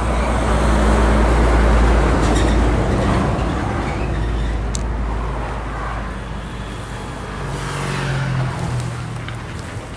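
Suzuki GSX-S1000 inline-four motorcycle engine with its stock exhaust, running on the road. It grows loudest about two seconds in, eases off, then picks up again near the end.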